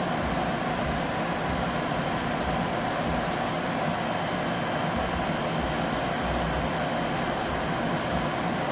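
Steady mechanical hum and hiss, an even background noise with no distinct events.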